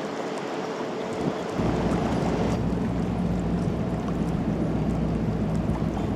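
Wind and water noise, joined about a second and a half in by a deep, steady ship's engine drone with a low hum that holds steady.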